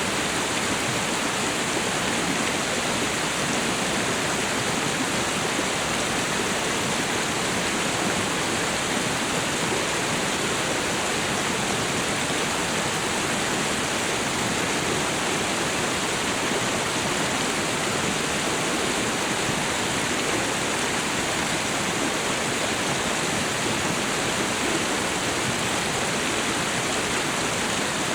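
Waterfall and river water rushing, a steady even roar with no breaks.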